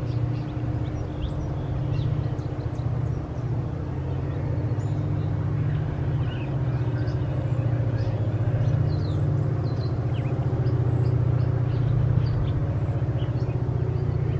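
Freight train's open hopper cars rolling past: a steady low rumble of steel wheels on the rails.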